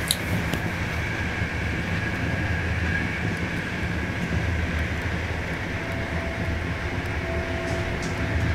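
Steady rumble of a moving passenger train heard from inside a compartment of a 156A first-class coach. There is one sharp click just at the start.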